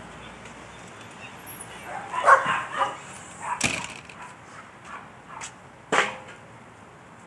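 Firewood knocking and clattering: a burst of clatter about two seconds in, then a few sharp knocks a couple of seconds apart.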